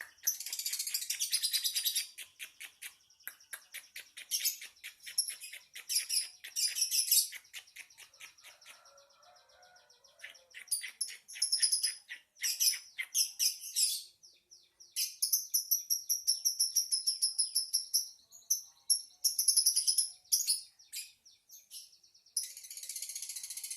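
Lovebird singing: long runs of rapid, high-pitched chattering chirps and trills, with a short lull about nine seconds in.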